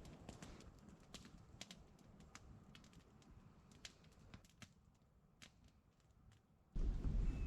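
Campfire crackling faintly, with sparse sharp pops and snaps that thin out and fade to near silence. Near the end, a sudden louder outdoor background of low rumble cuts in.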